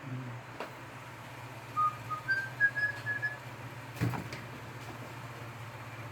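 A short whistled phrase of about seven brief notes, stepping up in pitch partway through, over a low steady hum.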